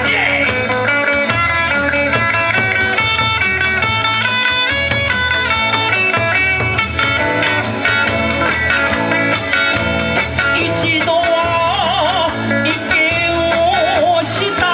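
Kawachi ondo band playing: an electric guitar picks a stepping melody over a steady drum beat.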